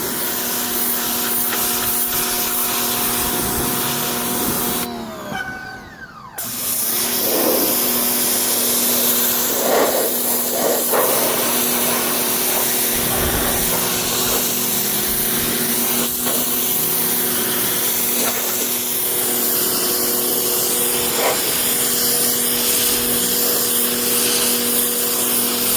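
Electric pressure washer running: a steady motor hum under the hiss of its water jet spraying into car carpet. About five seconds in, the motor winds down and stops for a second or so as the trigger is let go, then starts up again and runs steadily.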